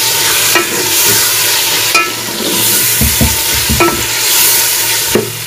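Chopped tomatoes and green chillies sizzling in hot oil in a metal cooking pot as they are stirred and sautéed with onions and spices, with a spoon scraping and knocking against the pot about four times.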